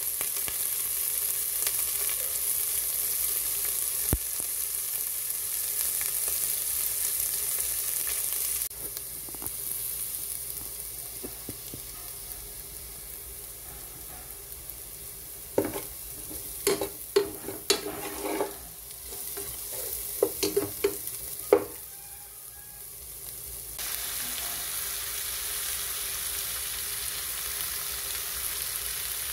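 Chopped onion, garlic, ginger and chili sizzling in oil in a non-stick pot, with a spatula knocking and scraping against the pot in a cluster of sharp strokes in the middle. The sizzling gets louder again near the end, when catfish pieces are in the pot.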